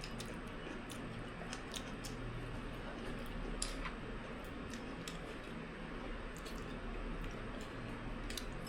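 People eating a meal: scattered small sharp clicks of chopsticks and utensils and soft wet chewing sounds over a steady low hum.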